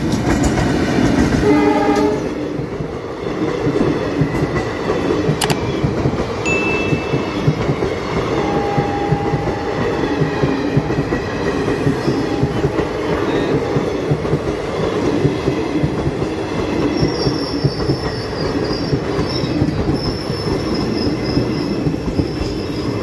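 Diesel locomotive sounding its horn for about two seconds at the start, then the passenger coaches rolling past close by, the wheels clattering over the rails with a steady rumble.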